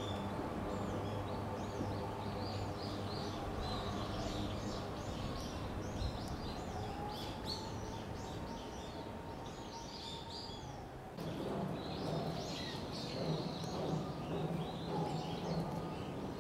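Small birds chirping in many short, repeated calls over a steady low hum.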